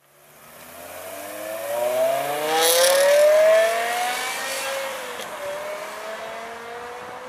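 BMW M6 E63's V10 engine through a custom stainless-steel exhaust, accelerating with its pitch climbing to the loudest point about three seconds in. About five seconds in the pitch dips briefly, then the engine runs on at a steadier pitch as the sound slowly fades.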